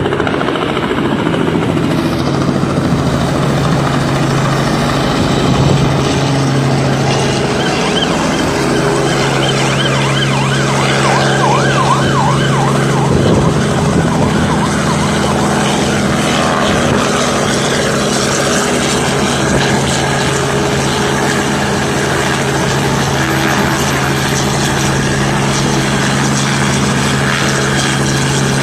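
Helicopter running steadily, its engine and rotor giving a constant low hum. A brief wavering higher tone rides over it around the middle.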